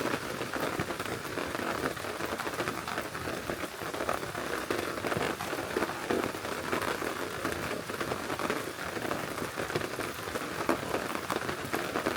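Heavy rain falling steadily on a tarp, with many separate drop ticks.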